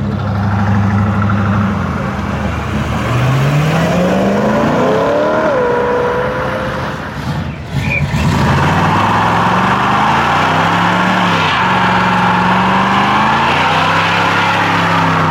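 Car engine revving, climbing in pitch a few seconds in; from about halfway a loud steady tyre hiss joins the engine held at high revs, the sound of a burnout.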